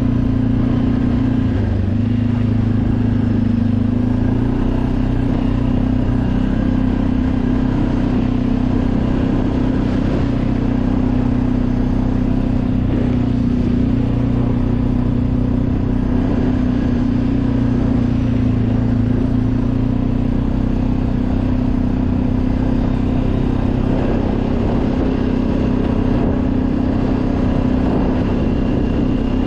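Motorcycle engine running steadily while the bike is ridden, its pitch holding nearly even with only slight rises and falls.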